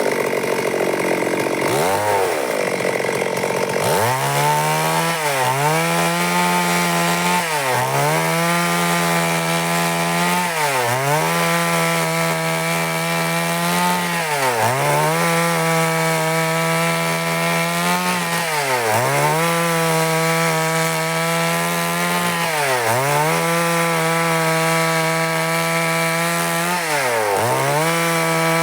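Stihl MS382 two-stroke chainsaw running at high revs while cutting wood, its pitch dipping briefly and climbing back every three to four seconds.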